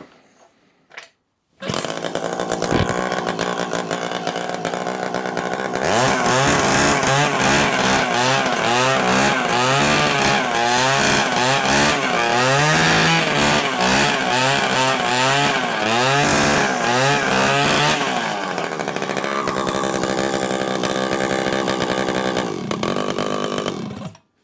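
49cc two-stroke minimoto engine driving the vacuum pump of a converted Henry vacuum cleaner. It starts running about two seconds in, then is revved up and down over and over in quick blips for about twelve seconds. It settles back to a steadier run and cuts off suddenly near the end.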